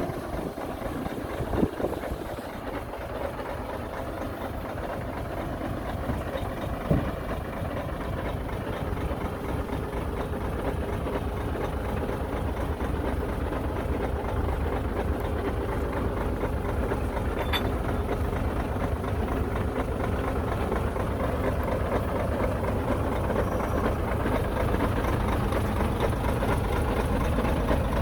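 Heavy earthmoving machine's diesel engine running steadily, slowly growing louder, with a couple of short knocks in the first several seconds.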